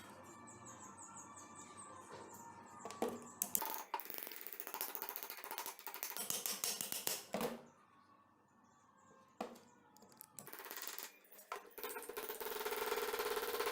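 Sharp metallic clinks and knocks in an uneven cluster, as of steel tools and metal being handled during work on a rusty adze. A denser, steadier sound builds near the end.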